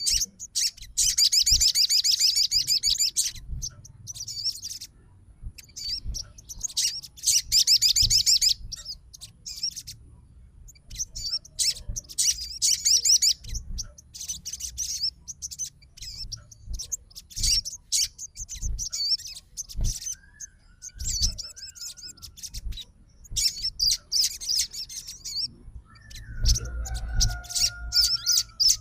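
Crimson sunbird (sogon) singing: bursts of very fast, high-pitched trilled notes, each lasting one to three seconds, repeated with short pauses between.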